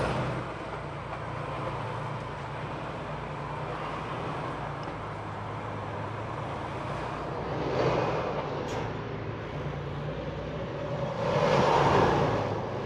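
Semi-truck's diesel engine and road noise heard inside the cab while driving: a steady low drone, with a louder swell about eight seconds in and a longer one near the end.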